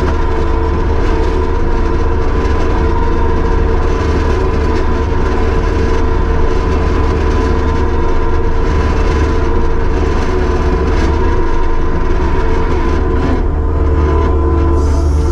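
Kubota SVL75-2 compact track loader's diesel engine running steadily under work, a deep drone with a steady whine over it.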